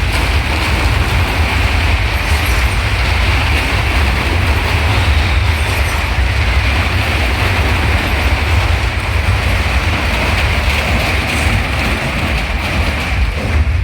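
Motorcycles riding round the wooden drum of a wall of death: a loud, steady engine roar over a deep, continuous rumble from the boards.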